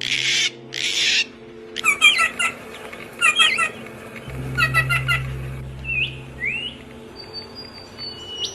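Birds calling: two short harsh squawks at the start, then three quick bursts of rapid chirping about a second and a half apart, followed by a few rising whistled notes. A low steady hum runs underneath.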